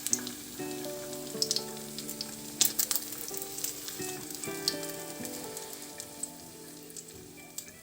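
Food sizzling and crackling as it fries in a pan, with a few sharper pops and clicks about two and a half to three seconds in. Soft background music with held notes plays underneath.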